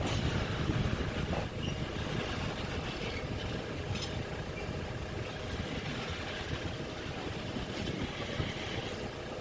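Diesel train moving at manoeuvring speed, with a steady low engine rumble and a few faint clicks from the wheels.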